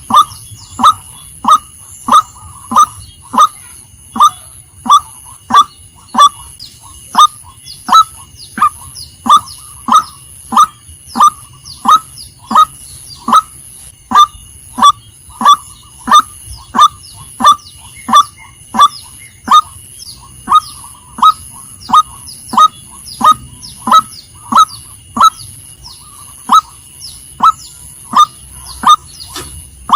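Female white-breasted waterhen calling: a short, sharp honking note repeated over and over at an even pace, about three calls every two seconds.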